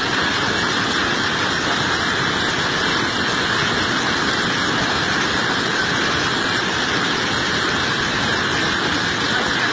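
Steady, even rush of water at a constant loudness, with no breaks or distinct events.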